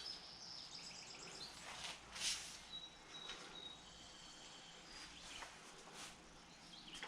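Quiet background of small birds chirping and trilling, with a few faint scattered clicks and rustles.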